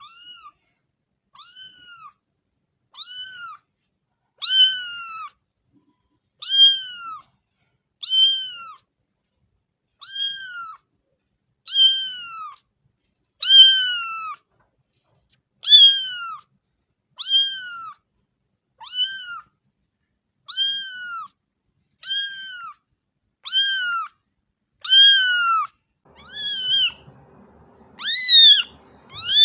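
A cat meowing over and over, each meow a short call that rises and falls in pitch, repeated about every one and a half to two seconds. The meows get louder near the end.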